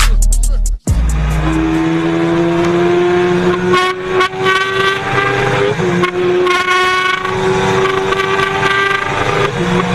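High-revving superbike engine running hard with a steady, high note. The pitch climbs slowly and breaks off briefly about four and six seconds in.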